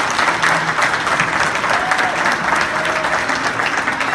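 A room of people applauding, steady throughout, with a few voices calling out over it.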